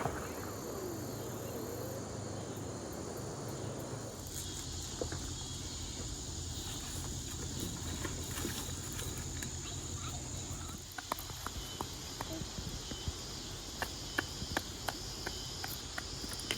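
Steady high-pitched chorus of insects, which fills out about four seconds in. A scatter of small clicks and taps joins it from about eleven seconds in.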